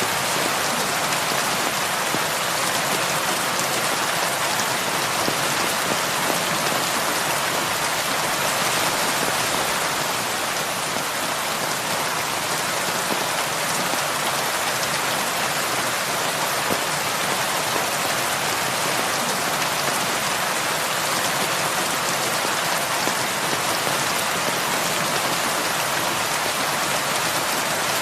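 Heavy rain falling steadily, an even hiss of drops with no thunder or breaks.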